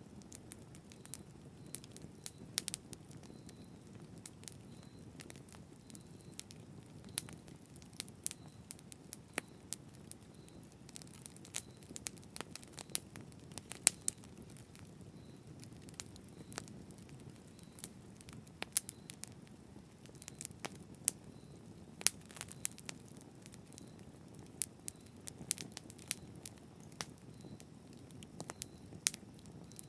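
Campfire burning steadily: a low, soft flame rumble under irregular wood crackles and sharp pops, several of them loud.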